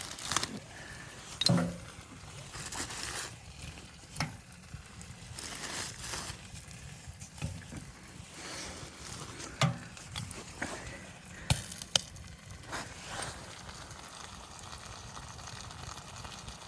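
Irregular knocks and clicks with scraping and rustling between them, as of things being handled and set down; the sharpest knocks come about a second and a half in, near the middle, and about twelve seconds in.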